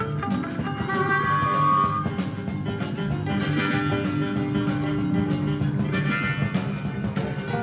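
Blues-rock band playing an instrumental passage, with sustained guitar notes over bass and drums.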